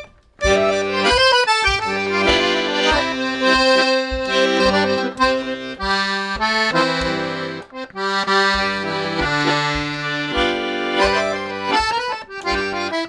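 Accordion playing a slowed-down bluesy improvised passage: a right-hand melody over regularly repeated bass notes and chords, after a brief break at the very start.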